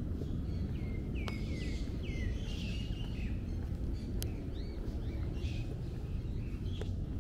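Small birds chirping and calling, with a quick run of falling chirps about a second in, over a steady low background rumble.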